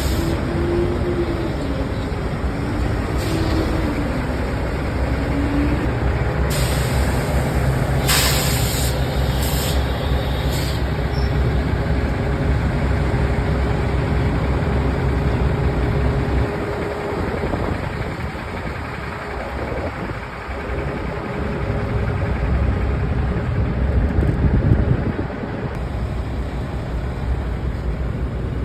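Semi truck engine running steadily, with several short bursts of compressed-air hiss in the first ten seconds or so.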